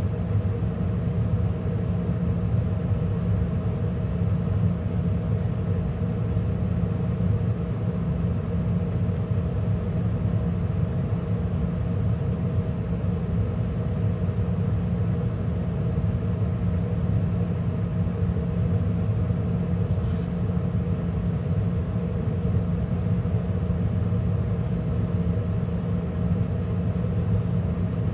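Carrier gas furnace running mid-cycle with its burners firing and the inducer and circulation blower running: a steady, unbroken rumble with a constant hum.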